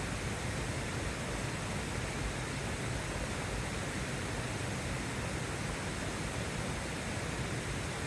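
A steady, even rushing noise with no separate drops, crackles or knocks.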